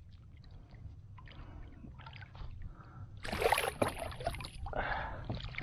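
Water splashing and sloshing beside a kayak as a big blue catfish is brought into a landing net. It is quiet with small knocks at first, then the splashing grows louder about three seconds in and again near the end.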